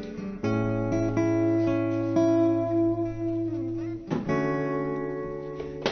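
Guitar playing the slow intro of a song: a chord struck about half a second in and left to ring, then the next chord about four seconds in.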